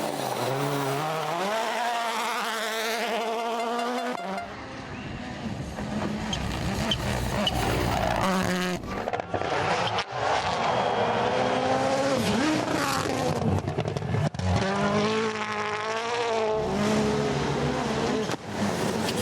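Rally car engines revving hard, pitch climbing and dropping through gear changes, heard in several short clips one after another.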